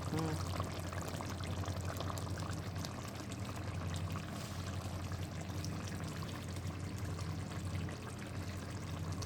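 Pot of dumplings, green banana, plantain and yam boiling steadily in water: continuous bubbling with fine crackles, over a low steady hum.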